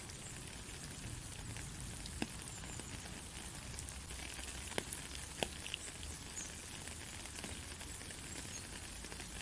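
Steady rain falling on a country road, a fine even patter with a few louder single drops standing out near the middle.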